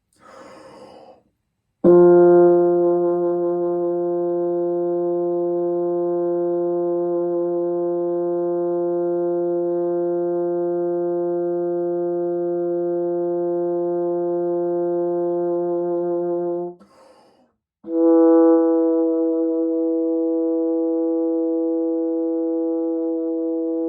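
A brass instrument playing long tones: a breath in, then one steady note held for about fifteen seconds, another breath, and a second steady note held after it.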